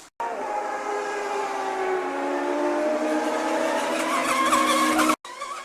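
Whine of an RC racing catamaran's motor, a loud tone of several pitches sliding slowly downward. It starts abruptly just after the beginning and cuts off suddenly about five seconds in.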